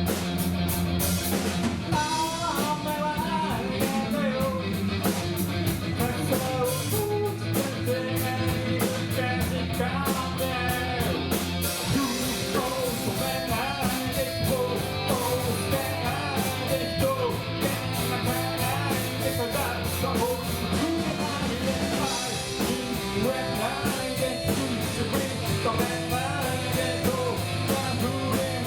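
Rock song with electric guitar, bass and drums under a singing voice, the cymbals keeping a steady beat.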